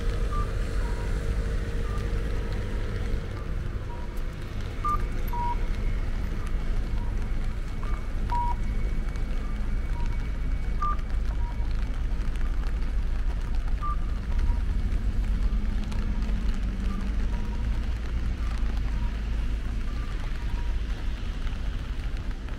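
Rainy outdoor ambience: a steady low rumble under a light hiss of rain, with scattered short, clear plinks of water drops at irregular intervals.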